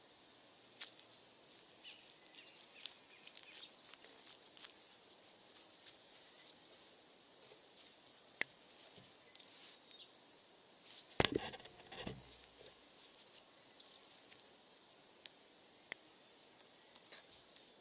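Wood fire crackling with scattered small pops. About eleven seconds in comes one loud chop-like knock of wood that rings briefly.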